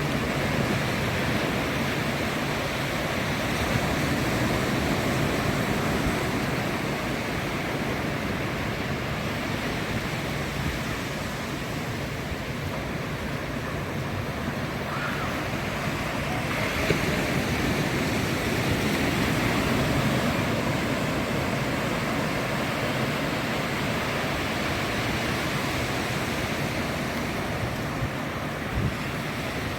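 Ocean surf breaking and washing up on a sandy beach: a steady rush of waves that swells a little twice.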